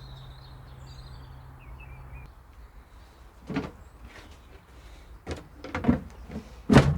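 Small birds chirping and a low steady hum that stops about two seconds in, followed by a series of knocks and thumps, the loudest near the end.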